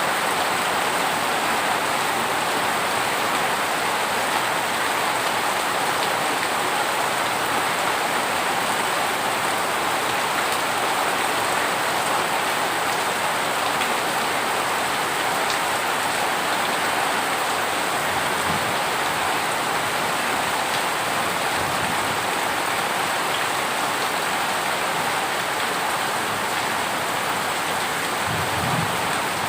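Heavy rain falling steadily on a surface, an even, unbroken hiss of drops.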